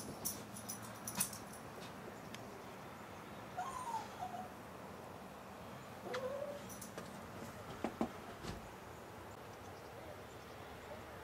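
An animal's two short whining calls, with a few sharp clicks in the first second or so.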